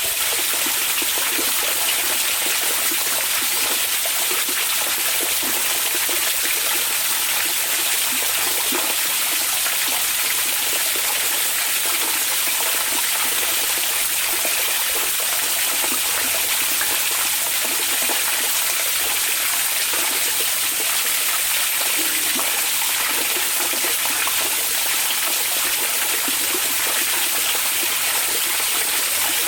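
Hot-spring (onsen) water running, a steady, even rush of water with no breaks or changes.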